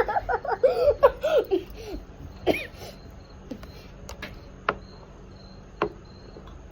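Girls laughing and giggling for about the first two seconds, with one more brief laugh shortly after, then a few faint clicks.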